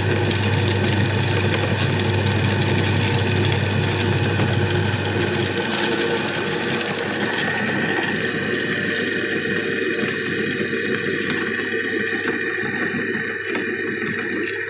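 Electric meat grinder running, grinding peanuts: a steady mechanical drone with scattered clicks. The low hum drops away about five and a half seconds in, and the sound turns duller a little later.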